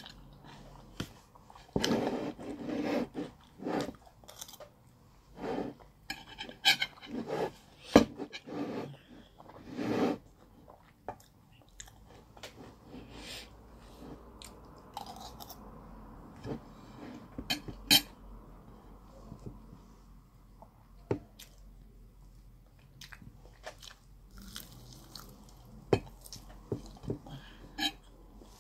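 Close-up chewing of mouthfuls of jollof rice, chicken and salad, coming in irregular bursts, with a few sharp clicks along the way.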